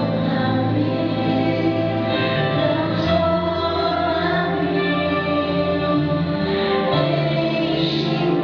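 Two female singers singing a gospel song together over instrumental accompaniment, with sustained bass notes that change about every four seconds.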